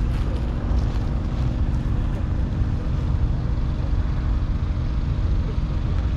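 John Deere 6210R tractor's 6.8-litre six-cylinder diesel engine running steadily with an even, low drone.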